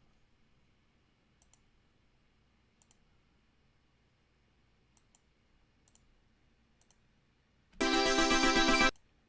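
A few faint clicks, then near the end one loud software synthesizer note, held for about a second and cut off.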